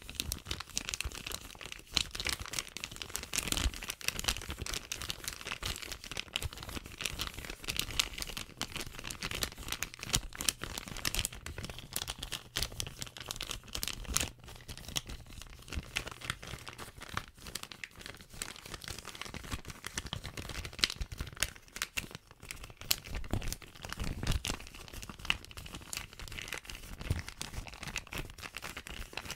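Plastic bag being crinkled and scrunched by hand, a dense run of sharp crackles.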